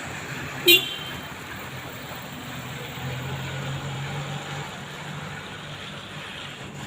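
Steady outdoor traffic noise with a motor vehicle's low engine hum swelling for a second or so around the middle, and one very short, sharp, loud toot just under a second in.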